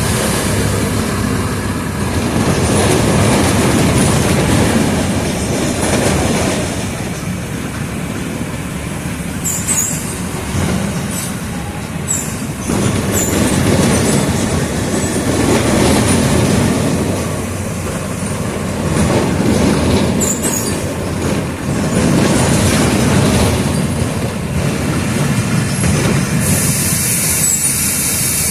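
Mercedes-Benz OF 1722M city bus under way: the diesel engine pulls and eases off in repeated surges, with squeaks and rattles from the body and a hiss near the end.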